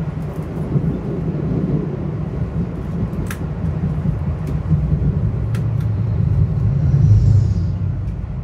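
Metro-North Hudson Line commuter train running, a steady low rumble heard from inside the passenger car, with a few sharp clicks.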